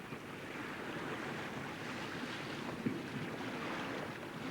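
Steady rush of wind and sea water around a sailing yacht under way, with one brief knock a little before three seconds in.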